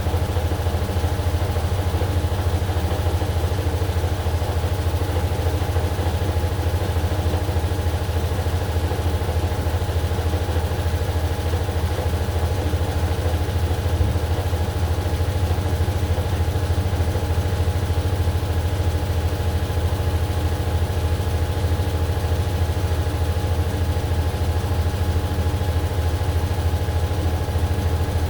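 AQUA AQW-DX12M drum-type washing machine running steadily: a continuous low hum with a few steady higher tones from the motor and drum, without pauses.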